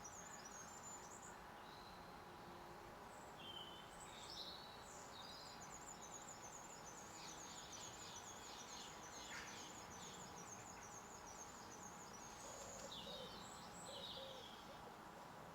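Faint wild birdsong: small birds give repeated high chirps and trills over a steady background hiss. A series of low hooting notes begins near the end.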